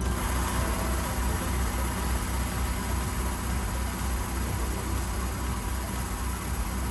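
Large diesel engine idling steadily, a low pulsing hum with a steady hiss over it.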